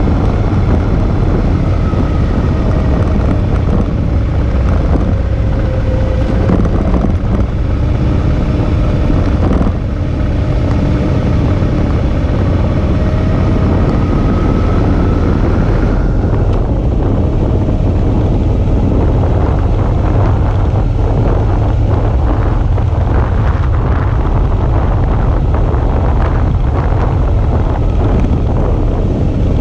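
Suzuki V-Strom 650's V-twin engine running on the move, under heavy wind rush on the microphone. Its pitch rises and falls gently over the first half.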